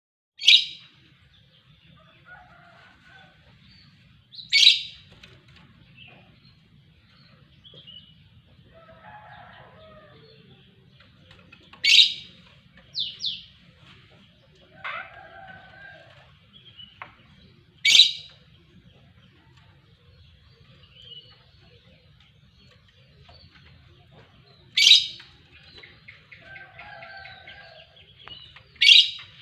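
Songbird calling: about six loud, sharp, very short high notes a few seconds apart, with softer, lower chirps and twitters in between, over a faint steady low hum.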